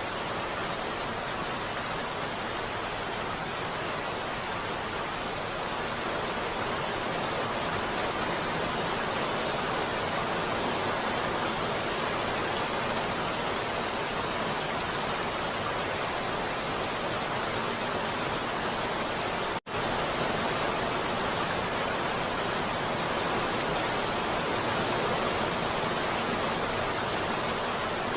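Heavy rain falling as a steady, even hiss. It cuts out for a split second about twenty seconds in.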